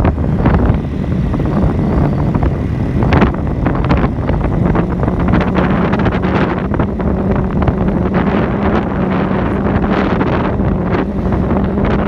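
Wind buffeting the microphone, a loud rough rush with a steady low hum beneath it.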